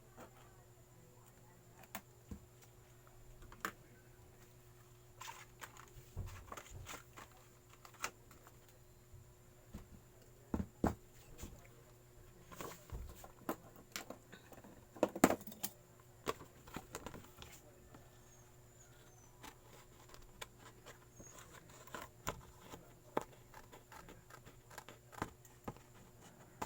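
Scattered light taps, clicks and paper rustling from handwork on gasket material, loudest in a cluster about halfway through, over a faint steady hum.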